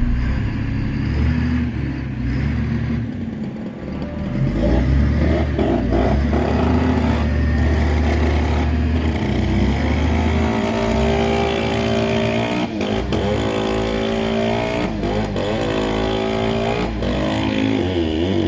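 An engine running steadily, its pitch starting to waver up and down about halfway through.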